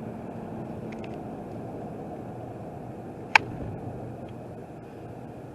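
Steady road and engine noise heard inside a moving vehicle at highway speed, with one sharp click about three seconds in.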